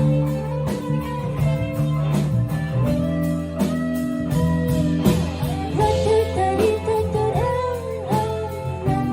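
Live band music without lyrics: a guitar playing a melodic line over bass and a steady drum beat, with notes sliding in pitch about five to eight seconds in.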